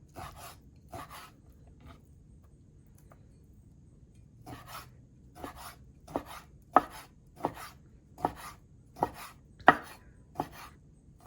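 Kitchen knife slicing raw chicken breast into thin strips, each cut knocking on the cutting board. A few cuts come at first, then a pause of about three seconds, then a steady run of cuts.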